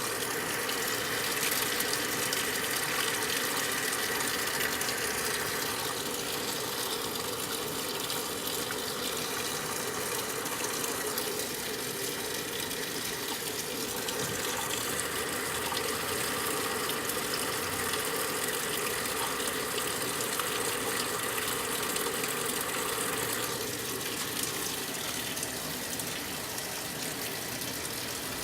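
Brastemp 9 kg top-load washing machine filling with water: a steady gush of water running into the tub.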